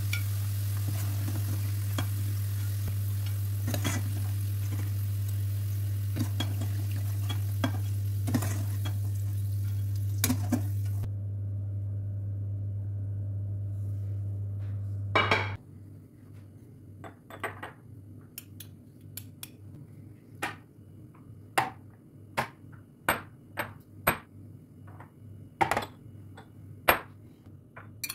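A steady electric hum of a kitchen appliance, with a hiss and scattered light clicks over it, cuts off about halfway through. After that, kitchen utensils and dishes clink and tap one at a time, about one sharp clink a second.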